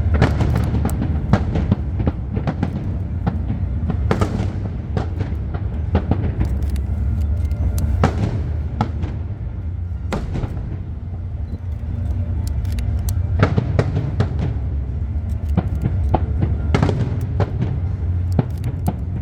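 Aerial fireworks going off: many sharp bangs and cracks of bursting shells at irregular intervals over a continuous low rumble.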